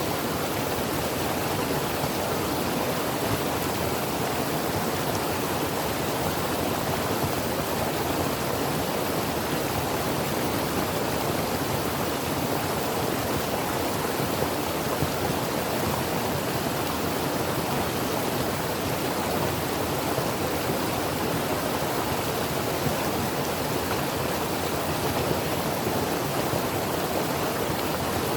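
Creek water flowing and rushing steadily, an even, unbroken rush of water.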